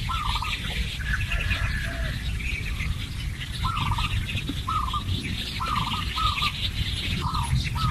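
Wild birds calling in woodland: one bird repeats a short call over and over, about once a second, over a busy background of higher chirping. A steady low rumble runs underneath.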